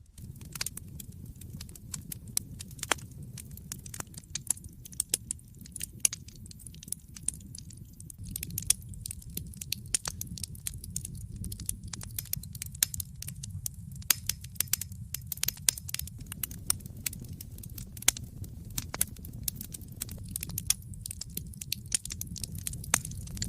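Wood fire in a fireplace crackling: many irregular sharp pops and snaps over a steady low rumble of burning logs.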